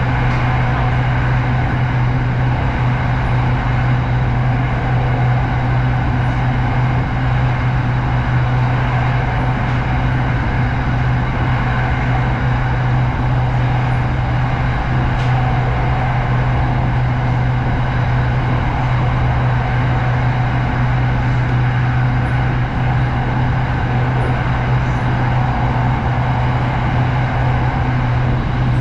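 SRT Red Line electric commuter train running at a steady speed: a constant rumble of noise with a steady low hum, no change in level throughout.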